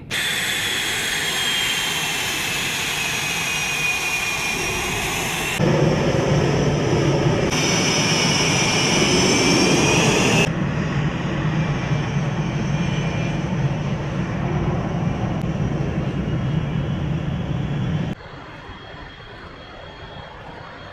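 F/A-18 fighter jet engines running with a high whine over a broad rush, the whine dipping and rising in pitch. It comes in several abruptly cut segments, loudest in the middle and dropping to a quieter run after about eighteen seconds.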